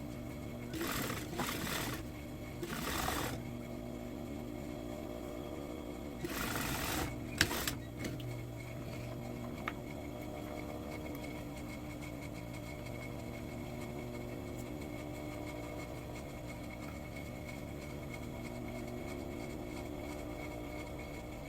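Sewing machine running steadily, stitching a seam. In the first eight seconds there are a few short noisy bursts and one sharp click before the steady run.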